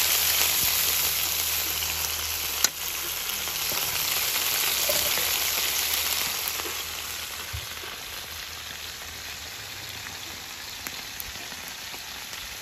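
Small whole fish coated in salt and lemongrass frying in hot oil in a wok: a steady sizzle with one sharp pop about two and a half seconds in. The sizzle drops to a quieter level a little past halfway.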